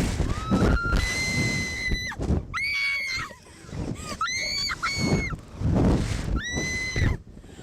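A woman screaming on a slingshot ride: a string of about six high-pitched shrieks, several held for about a second, over wind noise buffeting the microphone.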